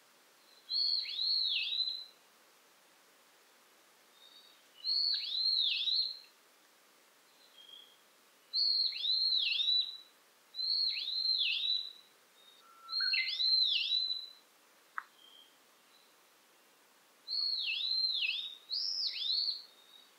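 A songbird singing the same short phrase seven times, with pauses of one to a few seconds between phrases. Each phrase is two or three quick high notes that swoop downward. A single faint click comes about three-quarters of the way through.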